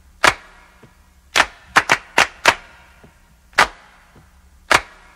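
A series of sharp, separate knocks or claps, about eight in all at uneven spacing, with a quick run of four in the middle, over a faint steady hum.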